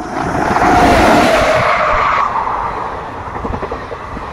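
WAP-7 electric locomotive passing at speed with a loud rush and a whine that drops slightly in pitch as it goes by, loudest about a second in. Then the lower rumble of the coaches running over the track.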